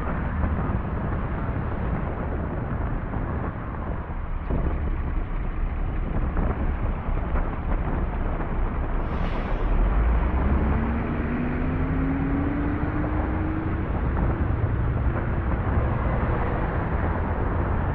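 Car on a snowy street, a steady low rumble of engine and road noise; about halfway through an engine revs, its pitch rising for a few seconds.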